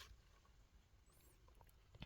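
Near silence, with a few faint scattered ticks and rustles and one sharper click near the end.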